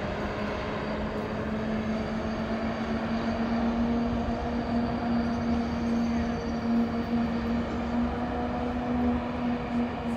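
Passing commuter train: the diesel locomotive's steady engine hum over the low rumble of the train on the rails.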